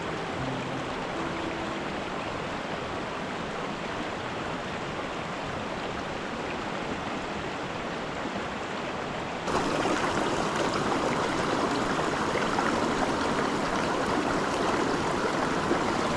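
Small mountain stream running over rocks, a steady rushing of water. About nine and a half seconds in it suddenly gets louder and brighter.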